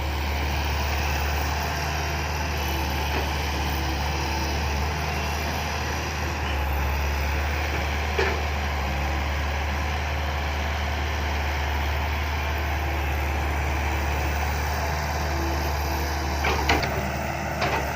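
Six-wheel dump truck's diesel engine running at a steady pitch, with a short knock about halfway through and another near the end.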